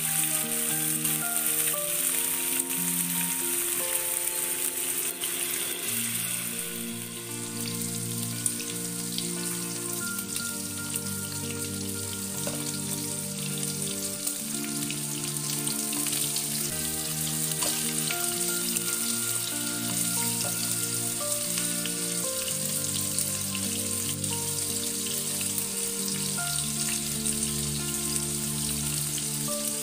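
Meat-wrapped enoki mushroom rolls sizzling and crackling in hot oil in a frying pan, under background music of held notes and chords.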